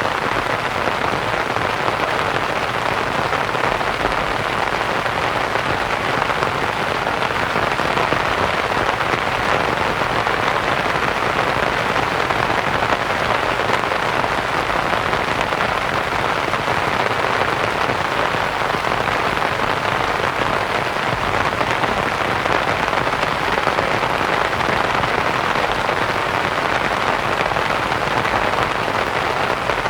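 Steady rain falling on a canvas tent, blended with a continuous white-noise hiss.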